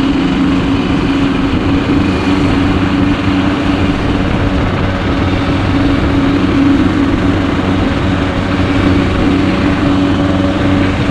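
Yamaha RX-King's two-stroke single-cylinder engine running at a steady cruising pace while riding, under a constant rush of wind and road noise.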